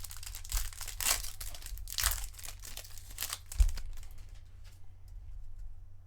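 Foil wrapper of a trading-card pack crinkling and tearing as it is handled and opened, with one low thump about three and a half seconds in; the crinkling dies down after that.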